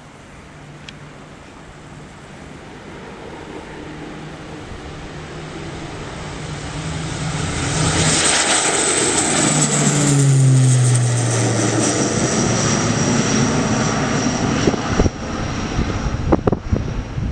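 Propeller aircraft flying past, growing louder as it approaches, then its engine note dropping in pitch as it passes about ten seconds in. A few sharp knocks near the end.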